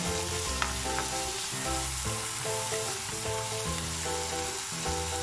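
Chopped onion, tomato and ginger sizzling in hot oil in a frying pan while being stirred with a plastic spoon. Background music plays along with it.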